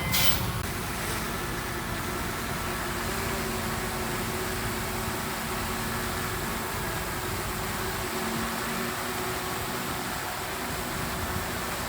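Heavy diesel earthmoving machinery running steadily: an even engine drone with faint steady tones under a hiss, and a short sharp knock right at the start.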